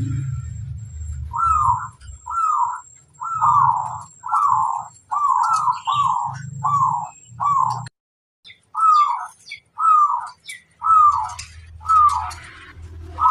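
Perkutut (zebra dove) cooing: a run of falling coo notes repeated about once a second, pausing briefly around the middle and then resuming, with faint chirps of small birds behind.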